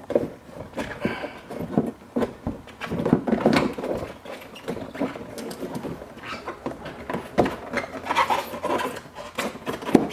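Plastic wheel-well fender liner being handled and bent back, with irregular scraping, rustling and sharp plastic clicks and knocks.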